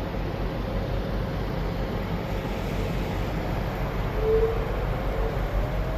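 Car wash tunnel machinery heard from inside the car: a steady rumble and hiss, with a faint whine.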